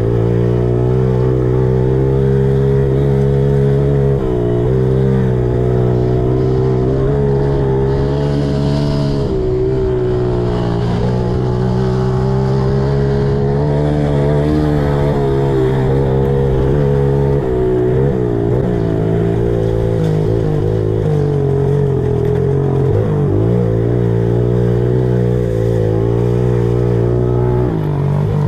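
Old four-stroke pit bike engine running under riding load, its note rising and falling repeatedly as the throttle opens and closes, with brief drops around four, nine and eighteen to twenty-three seconds in.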